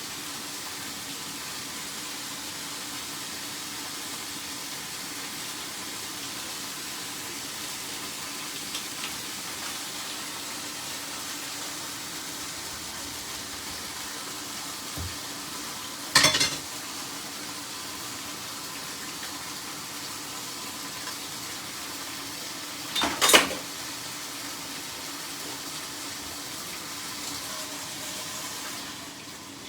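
Chicken pieces sizzling steadily in a hot frying pan under a coating of honey and whole grain mustard. Two sharp knocks of a utensil on the pan, about 16 and 23 seconds in.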